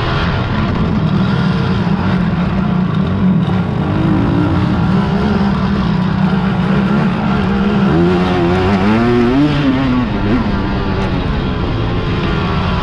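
Racing quad (ATV) engines running hard, with one engine revving up and down about eight seconds in.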